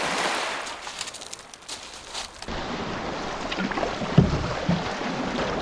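Water splashing and lapping around a canoe, with wind on the microphone. The sound changes abruptly about two and a half seconds in, and a low thump comes a little past the middle.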